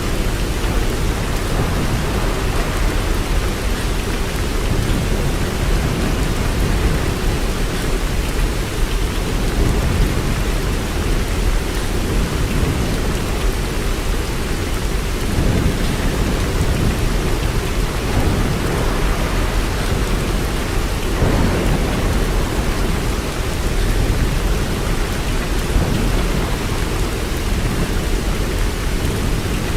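Steady rain falling, with a constant deep rumble underneath it.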